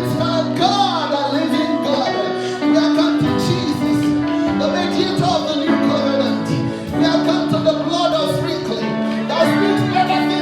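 Church worship music: held keyboard chords with a voice singing freely over them.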